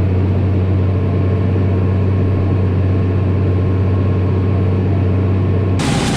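Engine running at a steady speed, a low even drone. Near the end it cuts off abruptly to a broad rushing noise.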